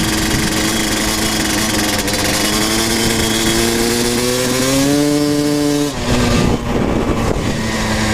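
Kawasaki KX250 dirt bike engine running hard while riding, its pitch climbing for a few seconds. About six seconds in the pitch breaks off into a ragged jumble, as with a gear change or a throttle chop, then it settles back into steady running near the end.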